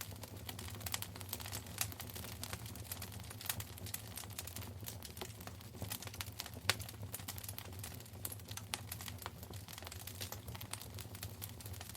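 Wood fire in a fireplace crackling, with irregular snaps and pops over a low steady rumble. The sharpest pop comes about seven seconds in.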